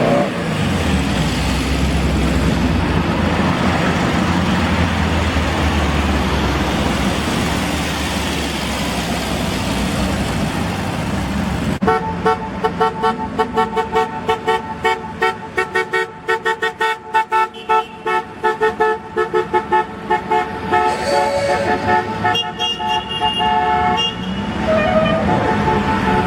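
Classic cars driving past with steady engine and road noise. About halfway in this gives way to car horns honking in rapid short toots at more than one pitch for about ten seconds, before the engine noise returns near the end.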